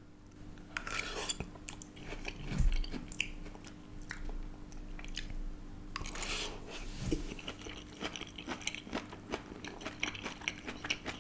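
A person chewing mouthfuls of charred flat noodles close to the microphone, with many small clicks of the mouth. A fresh forkful is bitten into about six seconds in.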